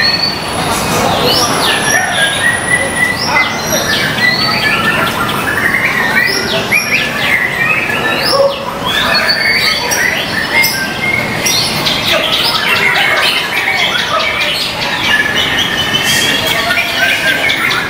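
White-rumped shama (murai batu) singing continuously: a fast, varied song of quick rising whistles mixed with harsh chattering notes, over steady background noise.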